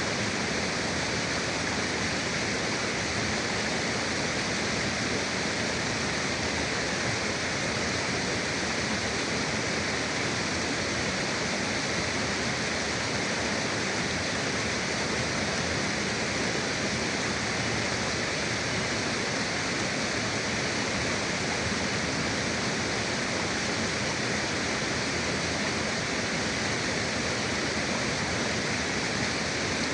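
River water flowing in a steady, even rush with no breaks or distinct events.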